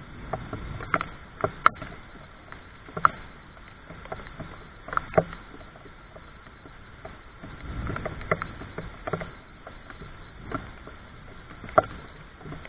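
Rain drops tapping close by at an irregular pace, about one or two sharp taps a second, over a low rumble.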